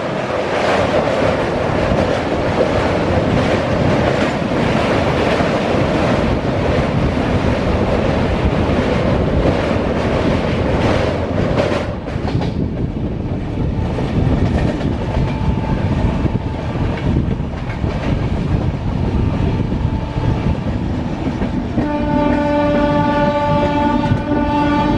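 Passenger train running on the rails: loud rushing noise with a rapid clatter of wheels for about the first half, then a softer rumble. About three seconds before the end, a train horn sounds one steady, multi-tone blast.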